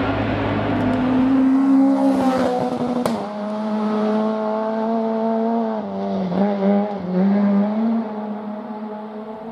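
Rally car engine at full throttle on a gravel forest stage. It shifts up about three seconds in with a sharp crack, backs off briefly twice later, and fades away as it drives off.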